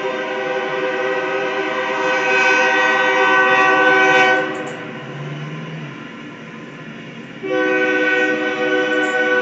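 Locomotive air horn sounding a long multi-note chord that stops about four seconds in, then a second long blast starting again near the end.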